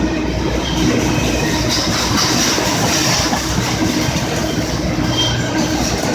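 Freight train rolling past close by, a steady rumble and clatter of wheels on rail, with a brief high squeal about five seconds in.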